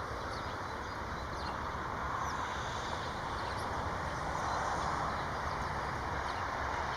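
Faint, scattered chirps of small birds over a steady rushing background hum.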